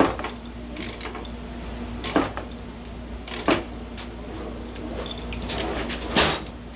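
Scattered sharp metallic clicks and clinks of hand tools and small engine parts being handled, about five over several seconds, with a louder one near the end. A faint steady hum runs underneath.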